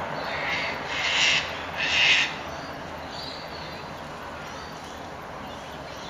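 A bird gives two loud, harsh calls, one about a second in and another about two seconds in, with fainter calls around them, over a steady background hiss.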